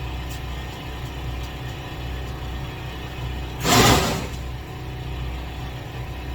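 A steady low engine hum runs throughout. About three and a half seconds in comes one short rushing noise, under a second long.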